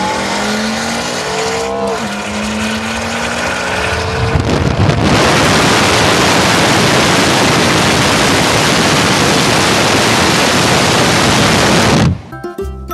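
A tuned car engine accelerating hard, its pitch climbing with a brief drop about two seconds in like a gear change. From about five seconds it turns into a loud, even rush of noise that cuts off suddenly near the end.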